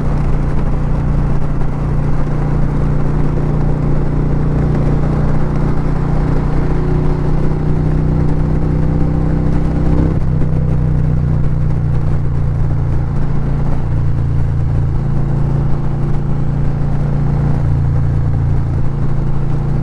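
Harley-Davidson V-twin motorcycle engine running steadily under way at road speed, with wind rushing over the microphone. The engine note changes about halfway through.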